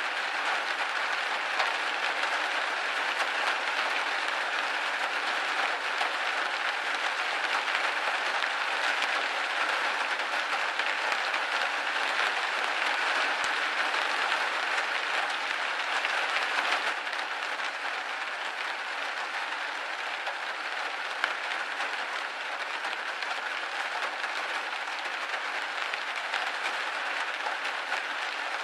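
Rain pattering steadily on a window pane: a dense hiss of countless small drop ticks. It eases slightly about two-thirds of the way through.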